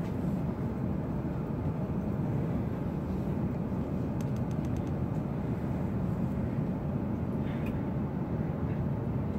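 Steady low rumble inside the cabin of an E7-series Shinkansen train as it rolls slowly out of the station.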